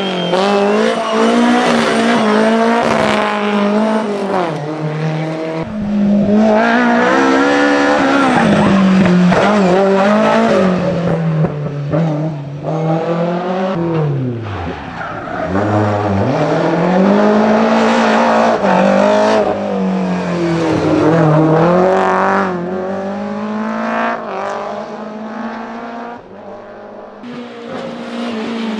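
BMW M3 engine revving hard, its pitch rising and falling again and again, with a deep drop and climb back about halfway through, while the tyres squeal as the car is driven sideways.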